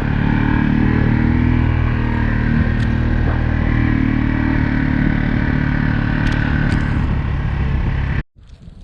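A vehicle engine running steadily while driving, with a few faint clicks. It cuts off abruptly about eight seconds in, leaving only a faint windy hiss.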